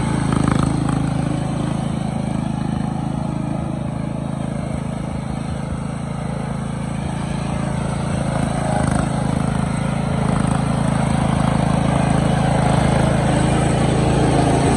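Murray 14.5-horsepower riding mower engine running steadily as the mower is driven, easing off a little midway and picking up again in the second half.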